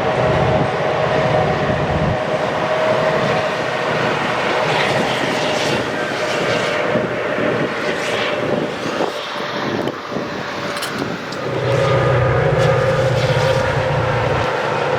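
A train passing, with a steady rolling noise and a held tone throughout. A deep diesel engine rumble fades about two seconds in and comes back strongly near the end.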